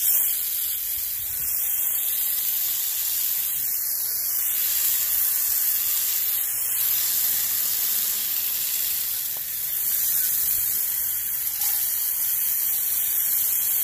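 Steady hiss of water spraying onto an air-conditioner condensing unit's coils as they are rinsed clean of caked dirt.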